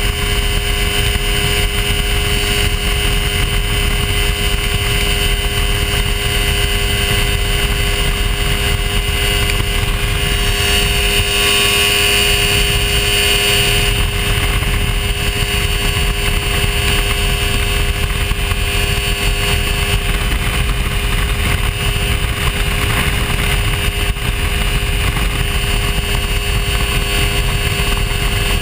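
Hy-Tek Hurricane ultralight airplane's engine and propeller running at a steady cruise, with wind noise; the sound grows a little brighter for a few seconds midway.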